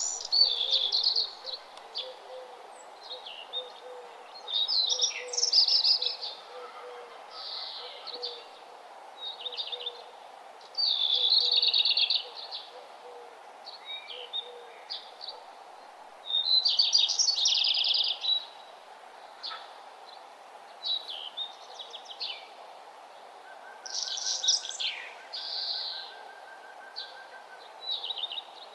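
Songbirds singing outdoors: short, bright, high-pitched song phrases, each a second or two long, repeated every few seconds over a steady low background noise.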